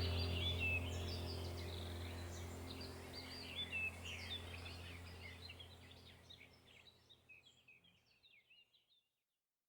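Small birds chirping rapidly over a steady low hum, the whole sound fading out gradually to silence near the end.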